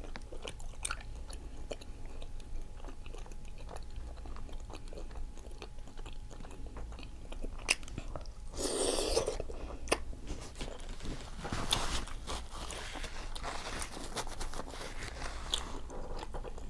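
Close-up chewing and biting of seafood, with many small wet mouth clicks. A louder rustling, noisy stretch comes about nine seconds in and another around twelve seconds.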